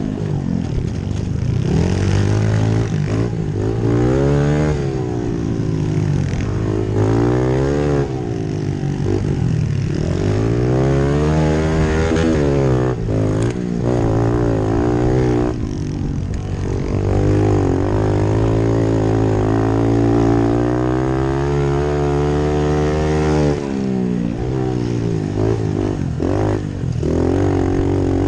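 Pit bike engines running hard, their pitch rising and falling over and over as the riders work the throttle and shift gears.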